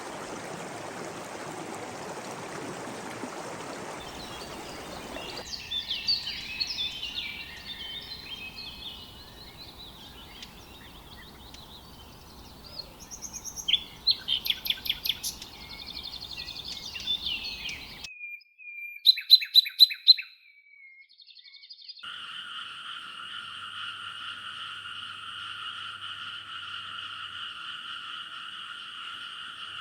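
Rainforest nature sounds in a sequence: running water at first, then birds chirping and twittering, a loud run of sharp rapid calls about two-thirds of the way through, and then a steady, even chorus of frogs.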